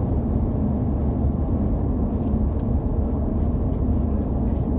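Truck driving along: a steady, loud low rumble of engine and road noise.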